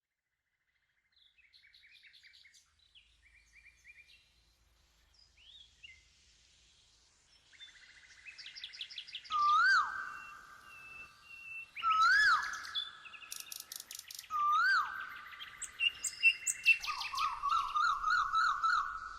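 Birds chirping and calling, faint at first and fuller from about nine seconds in, with high chirps and trills under a louder swooping call that repeats three times about two and a half seconds apart.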